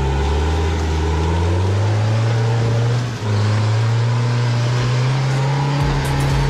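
Off-road 4x4's engine revving under load as it drives through deep mud. The pitch climbs, dips briefly about three seconds in, then climbs again and holds.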